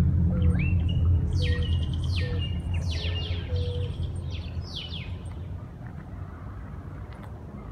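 Birds chirping: a run of quick calls that sweep down in pitch, most of them between about one and four and a half seconds in. Under them a low rumble fades away over the first half.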